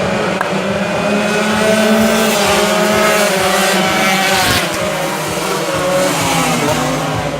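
Tuned Yamaha RX-King two-stroke road-race motorcycles running hard at high revs, more than one engine note rising and falling as they race.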